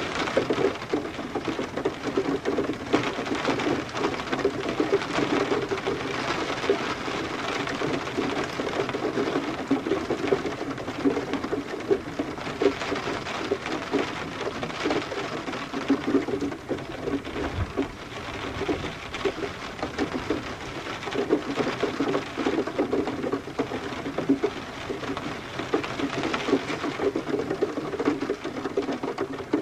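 Steady rain falling, a dense continuous patter of drops.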